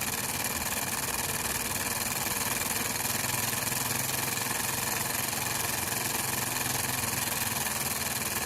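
Small single-cylinder hot-air Stirling engine running steadily at speed, its piston and flywheel making an even, fast mechanical whirr.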